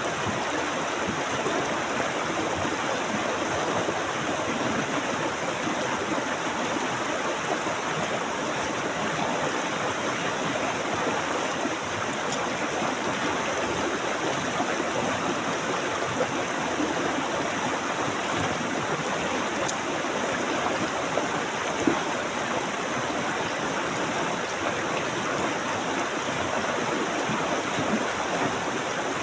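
Stream water flowing and splashing over rocks in a steady, dense rush, with the odd small splash or plop.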